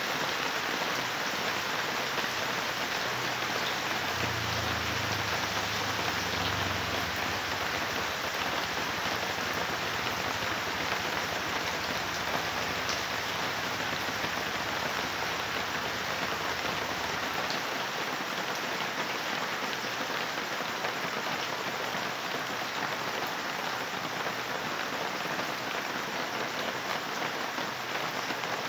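Heavy rain falling steadily on the garden plants and yard, a dense, even hiss.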